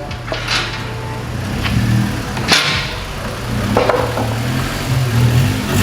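Car engine idling with a steady low drone, with several short sharp knocks and clinks over it.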